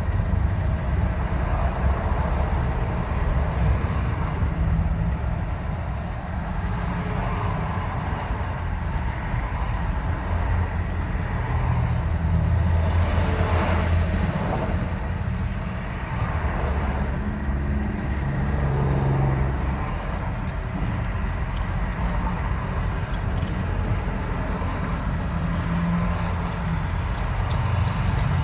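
Steady low rumble of motor vehicles on a road, with a brief swell about halfway through.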